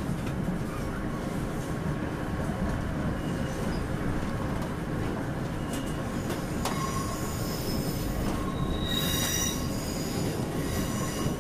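Steady rumble of a Class 156 Super Sprinter diesel unit running, heard from inside the carriage. About halfway through, a high-pitched squeal from the wheels sets in, loudest about three-quarters of the way through.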